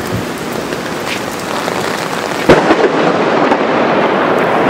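Steady rain, then about halfway through a sudden sharp crack of thunder from a lightning strike on the top of the building close by. The thunder stays loud afterwards.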